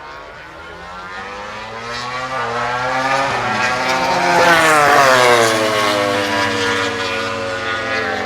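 A MotoGP racing motorcycle at full throttle passes at top speed, around 320–330 km/h. Its high-revving four-stroke engine note climbs and grows louder as it approaches, drops sharply in pitch as it goes by about five seconds in, then fades away.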